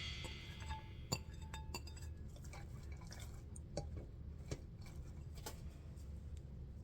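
Faint kitchen clatter: scattered light clinks and taps of utensils and dishes, with a sharper click about a second in.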